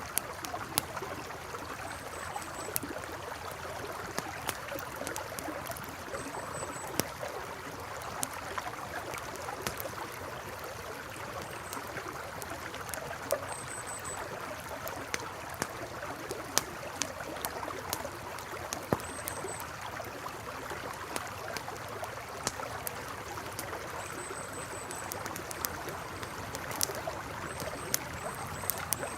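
Campfire crackling with frequent sharp pops over the steady rush of a flowing river. Short, high chirps come through every few seconds.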